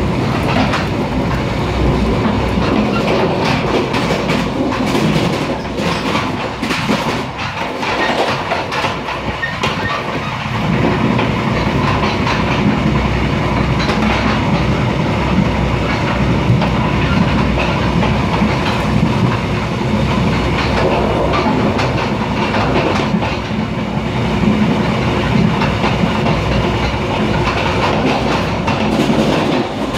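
Mugunghwa-ho passenger train running along the line, heard from inside a passenger car: a steady rumble of wheels on the rails, with clicks scattered through it.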